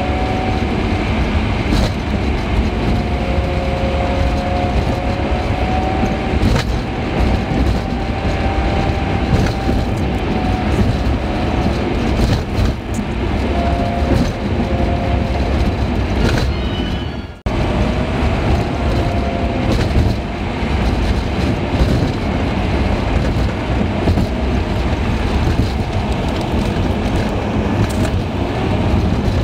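Car driving, with its engine and tyre-and-road noise in a steady rumble and a few wavering engine tones rising and falling. It briefly cuts out about seventeen seconds in.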